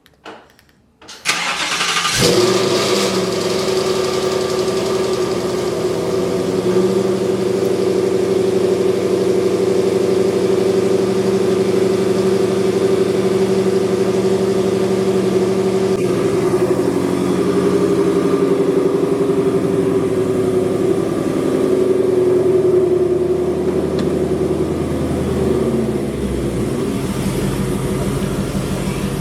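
Ford Mustang GT V8 with headers and an aftermarket exhaust being cranked and catching about two seconds in, then idling steadily through the exhaust, its note shifting slightly about halfway through. It is pretty loud even with the exhaust valves closed.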